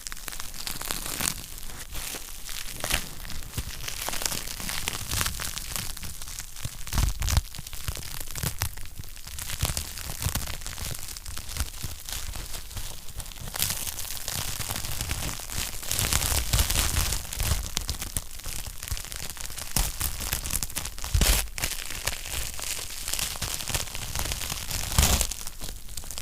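Wood fire burning in a fireplace, with dense irregular crackling and sharp pops over a steady hiss.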